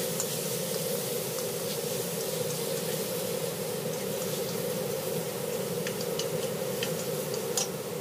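Diced pork frying in oil in a wok: a sizzle with scattered crackles and pops that grow busier in the last couple of seconds, over a steady low hum.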